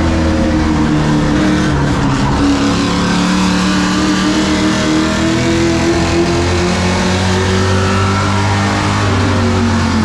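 Race truck engines running hard on a short oval track, with the engine pitch dipping and climbing as the trucks go through the corners and down the straights.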